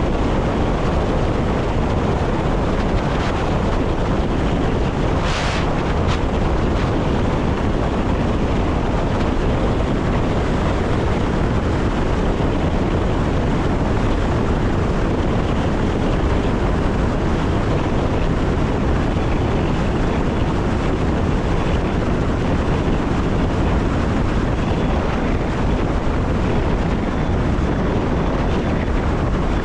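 Electric passenger train running along the line, heard from the driver's cab: a steady rush of wheel, rail and wind noise. There is one brief sharp sound about five seconds in.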